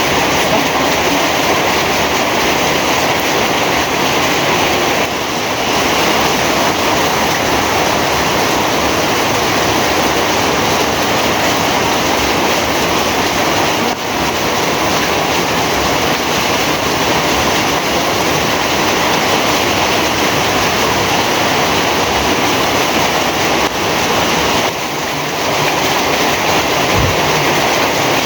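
Heavy rain falling: a loud, steady, dense hiss that dips briefly a few times.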